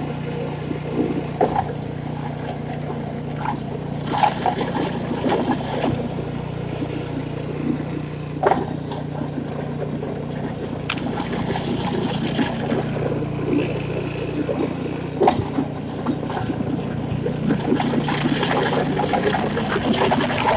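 Snowblower engine running steadily while the machine works through snow, with scattered scrapes and clacks and patches of hissing snow.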